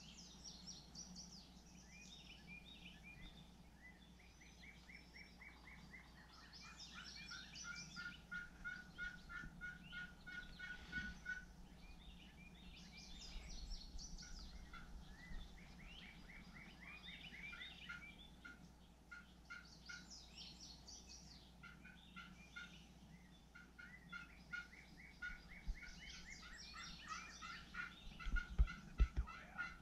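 Faint birdsong: several birds repeating series of short, evenly spaced notes at different pitches, overlapping, with a few low thumps near the end.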